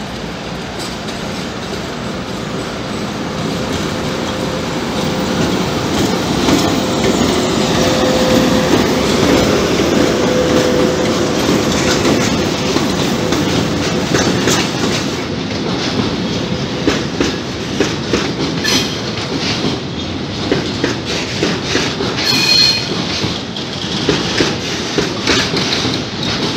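ET42 twin-section electric freight locomotive approaching and passing close by, growing louder with a steady whine. Then its train of loaded flat wagons rolls past with a rhythmic clickety-clack of wheels over rail joints. A brief high squeal comes about three quarters of the way in.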